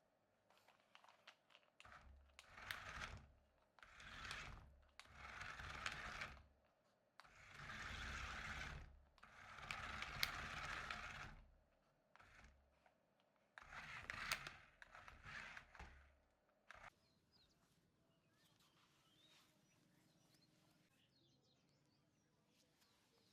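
Toy RC stunt car's small electric motors whirring in a series of short bursts, each a second or two long, as the car is driven in stop-start spurts; the bursts stop about two-thirds of the way in.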